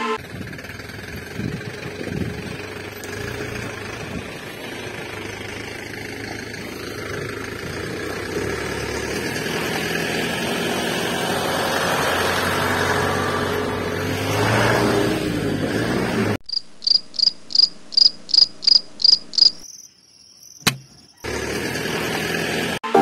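A small electric motor running with a steady whirr that rises slightly in pitch past the middle. Then about ten evenly spaced, high, cricket-like chirps over about three seconds, the loudest sound, followed by a single click.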